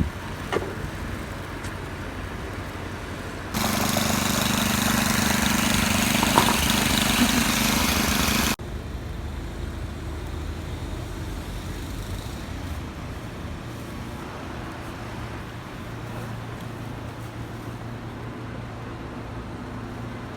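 Steady low engine hum of traffic. A few seconds in, a much louder steady rushing noise with a low hum cuts in; it lasts about five seconds and then cuts off abruptly.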